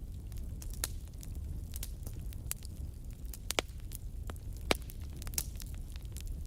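Wood campfire crackling, with irregular sharp pops, the two loudest about a third and two thirds of the way through, over a steady low rumble.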